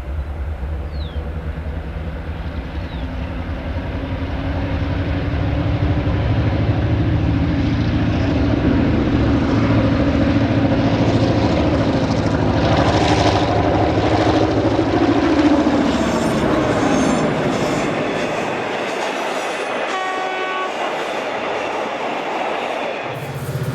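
EMD diesel-electric locomotive hauling a train and working hard, its engine throb growing louder and then easing as it passes, with wheels clicking over rail joints. A short horn blast sounds about twenty seconds in.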